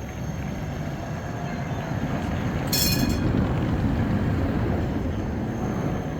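Škoda 52T ForCity Alpha tram passing on the rails, its rumble swelling to a peak about three seconds in and then fading, with a brief high-pitched tone at the peak.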